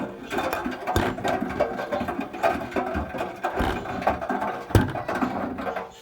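Bottles tumbling in the drum of a Bosch Series 2 washing machine, clattering and rattling continuously with a few heavier knocks as they drop against the drum.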